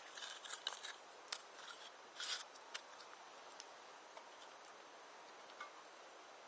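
Small campfire crackling: a quick run of sharp, irregular snaps and pops in the first few seconds, thinning to a faint hiss.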